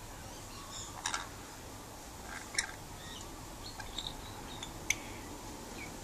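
Scattered short bird chirps and calls, with a few sharp clicks.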